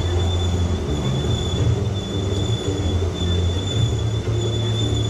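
Park tram running, a steady high-pitched whine over a low rumble.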